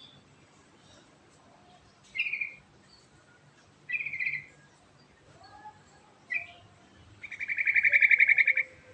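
Yellow-vented bulbul singing: short chirpy phrases a couple of seconds apart, then a fast run of rapidly repeated notes lasting over a second near the end, the loudest part.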